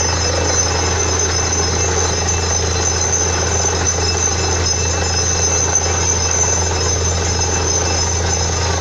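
Borewell drilling rig running steadily: a constant, loud low engine drone with an even hiss and some high steady tones over it.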